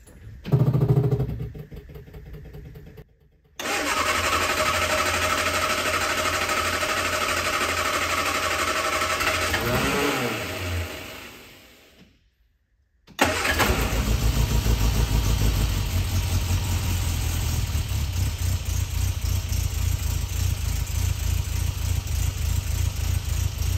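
A short loud noise near the start, then the Innocenti Spider's four-cylinder engine running after a jump start. It revs up and back down about ten seconds in, then idles with an even beat.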